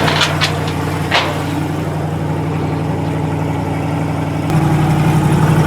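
A vehicle engine running steadily, with a few light clicks in the first second. About four and a half seconds in, the engine grows louder and deeper.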